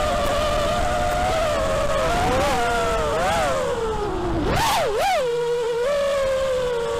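FPV racing quadcopter's Cobra brushless motors whining steadily, the pitch dipping and rising with throttle changes, with one quick sharp rise and fall a little past halfway.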